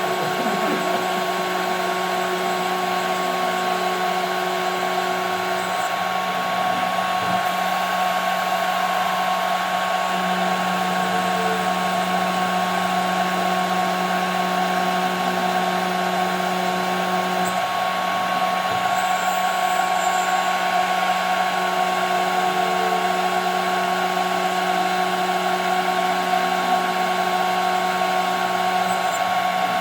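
CNC router spindle whining steadily as it cuts 5 mm plexiglass. A lower hum underneath grows louder about ten seconds in and eases off again some seven seconds later.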